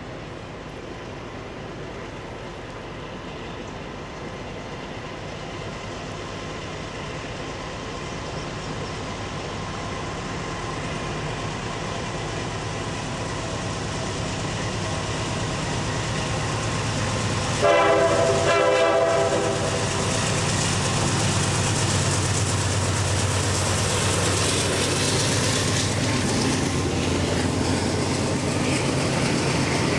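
GE C40-8 diesel locomotive with its 16-cylinder engine working hard uphill under a loaded rail train, growing steadily louder as it approaches. It gives one short horn blast a little past halfway, and after that the engine and wheel noise stay loud.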